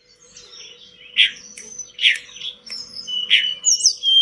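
Tledekan gunung (snowy-browed flycatcher) singing: three loud sharp chirps about a second apart, with thin high whistled notes and quick trills between them.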